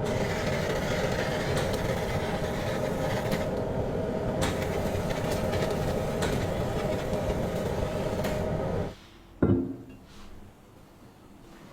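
A motorised tool runs steadily with a hum and grinding noise, then stops abruptly about nine seconds in; a single sharp knock follows.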